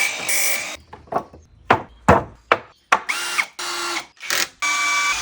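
Power-tool work on wood in short bursts one after another: a power drill whirring, spinning up and down, with sharp knocks in between.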